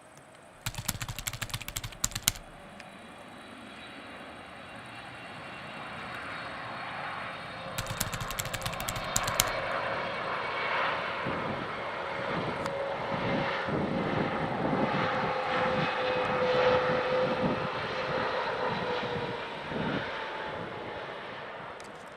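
Boeing 777-300ER's GE90 turbofan engines whining and roaring, growing steadily louder to a peak most of the way through and then easing off as the jet passes. Two short bursts of crackling noise come near the start and about eight seconds in.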